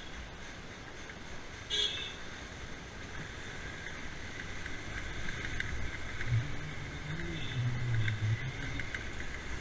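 A motorbike running on the move, with steady wind and road rumble and an engine hum that grows stronger about halfway through. There is a short high-pitched sound just under two seconds in.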